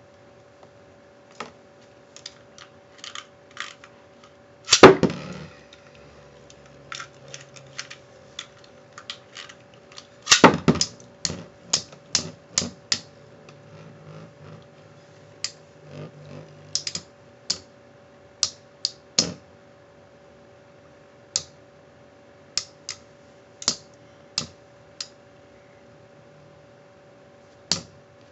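Plastic Beyblade tops and launcher being handled, giving a run of sharp clicks and clacks. The loudest is a clatter about five seconds in, with another cluster about ten seconds in.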